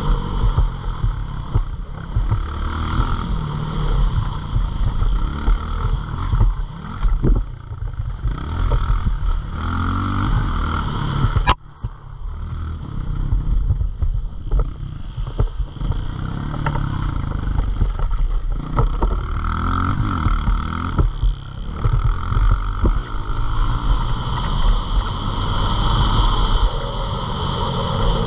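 Pit bike engines running and revving, pitch rising and falling again and again as the bikes accelerate and ease off. There is a sharp click about eleven and a half seconds in.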